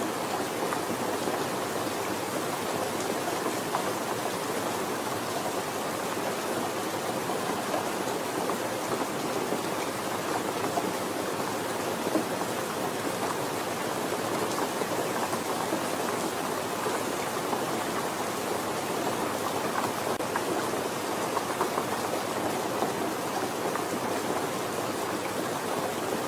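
Steady, soft rain falling, an even patter of drops.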